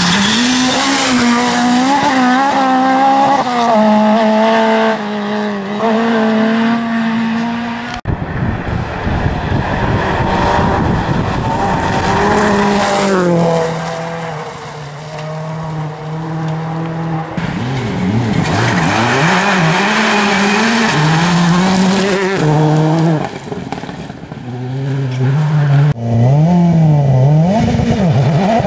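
Rally car engines run hard on a stage, revs climbing and dropping with throttle and gear changes. Several separate passes are cut together, with a cut about eight seconds in, another near seventeen seconds and a third near the end.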